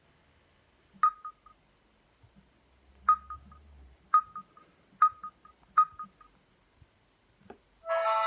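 Samsung GT-S5230W mobile phone giving five short high beeps, each with a quick fading echo, spaced about one to two seconds apart, as it is operated. After a soft knock near the end, one of its ringtones starts playing.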